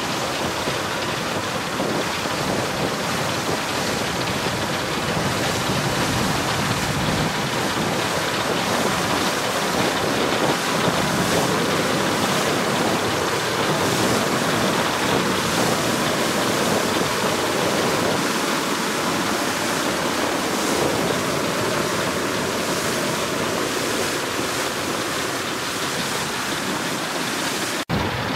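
Steady rushing noise of wind and water heard from a moving boat on a fjord, with wind on the microphone. It drops out briefly near the end.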